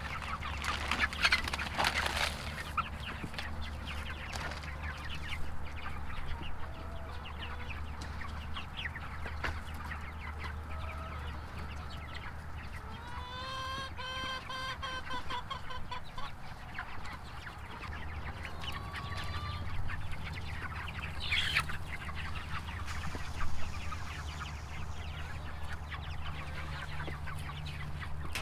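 A flock of chickens clucking, with one longer, drawn-out pitched call about halfway through. A steady low hum runs underneath.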